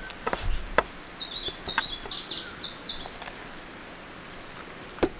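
A songbird sings a quick run of about half a dozen high sweeping notes, starting about a second in and lasting about two seconds. Light clicks and taps of a utensil against a plastic food container and a wooden plate come in the first few seconds as chicken is served.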